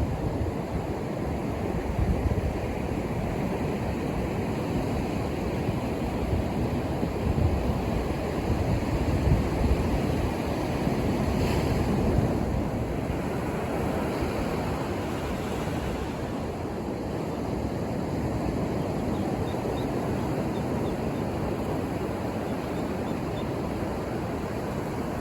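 Ocean surf: waves breaking and washing up the shore in a continuous rush, swelling a little about halfway through and then easing. Low wind rumble on the microphone runs underneath.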